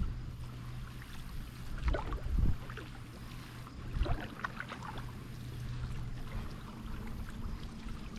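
Kayak paddle strokes in lake water: splashes and drips from the blade, loudest about two and four seconds in, over a steady low hum.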